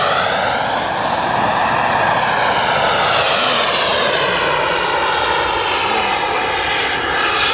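Gas-turbine engine of a radio-controlled model jet in flight, a loud jet rush with a whine that rises and falls in pitch as the aircraft passes.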